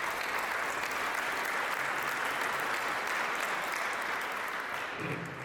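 Crowd applauding steadily, fading near the end.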